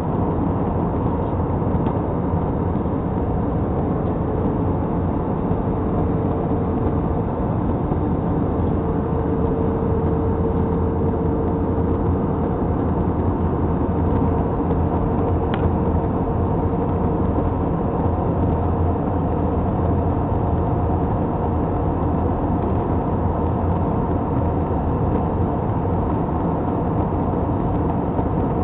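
Steady engine and airflow drone inside an airliner cabin in flight, with a steady hum in it and one brief click about halfway through.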